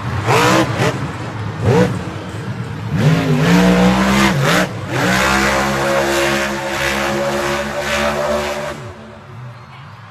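A motor vehicle's engine revving: two short rising revs in the first two seconds, a longer climb about three seconds in, then a steady high-speed run that fades near the end.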